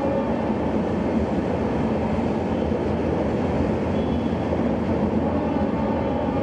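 Indian Railways express train with LHB coaches rolling steadily past, a continuous rumble of wheels on the rails.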